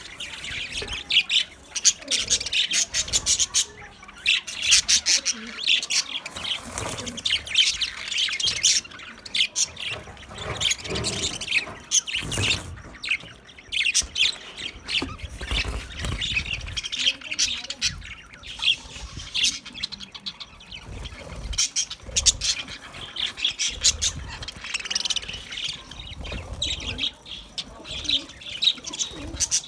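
A group of small Australian parrots chirping and chattering continuously, many quick high calls overlapping.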